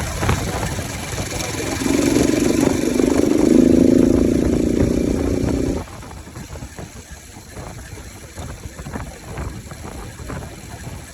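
Bajaj Pulsar RS 200's single-cylinder engine running with its air filter removed: it is revved and held high for about four seconds, then drops suddenly back to a rough idle just past the middle.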